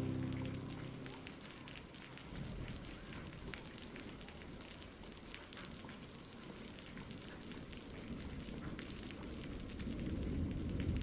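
Steady rain falling, an even hiss dotted with the patter of individual drops, as a music track fades out in the first second or so. A low rumble swells up near the end.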